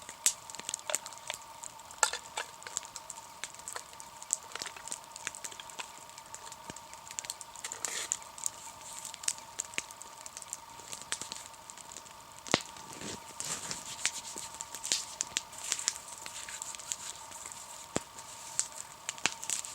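A wood campfire crackling, with irregular sharp pops, a few of them much louder than the rest.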